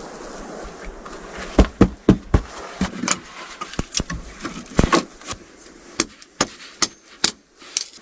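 An irregular series of sharp, short knocks and crunches, about one or two a second, over a steady hiss.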